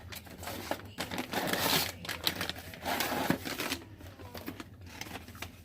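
Crinkling and rustling of a plastic snack bag being handled, with scattered small clicks.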